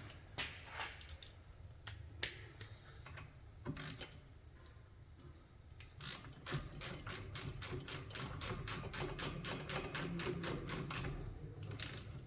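Socket ratchet clicking at about five clicks a second for several seconds, driving in the 11 mm banjo bolt on a rear brake caliper. A few scattered metal clicks come before it.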